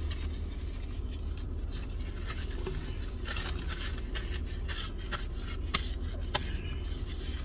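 Close-miked chewing of waffle fries: scattered soft mouth clicks and crunchy crackles, heaviest in the middle, over a steady low hum.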